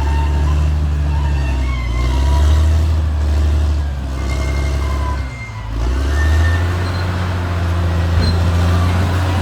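Caterpillar D6R XL bulldozer's diesel engine running steadily under work, with short high squeals from the steel tracks. The engine dips briefly a little over five seconds in, then runs louder.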